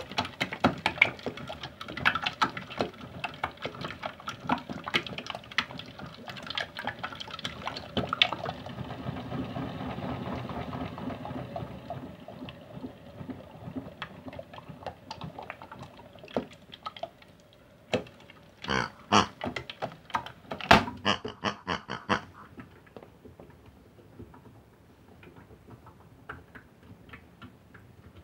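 Sticky wet slime squelching and clicking, with a steady low hum from about eight to twelve seconds in and a cluster of louder clicks about twenty seconds in; after that only faint ticks remain.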